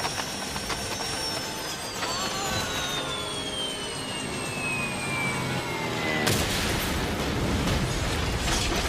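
Film sound effects: a long whistle falling steadily in pitch, then about six seconds in a sudden loud blast whose noisy roar carries on.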